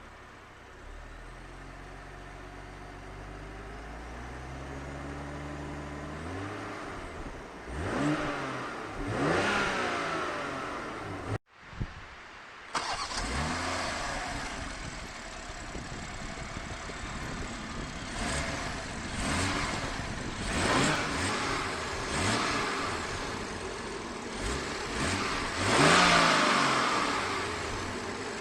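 BMW M340i's 3.0-litre B58 turbocharged inline-six running at idle, then revved in a series of short blips with the pitch rising and falling. The sound cuts out briefly about eleven seconds in, and the strongest rev comes near the end.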